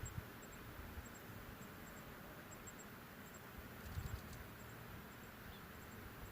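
Faint outdoor ambience: soft high-pitched insect chirps ticking on and off over a low rumble, with a brief cluster of soft thumps and clicks about four seconds in.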